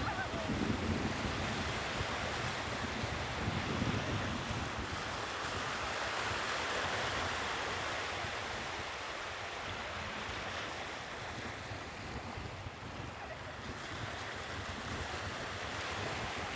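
Sea waves breaking and washing up the shore, with a wave surging louder midway. Low wind buffeting on the microphone runs underneath.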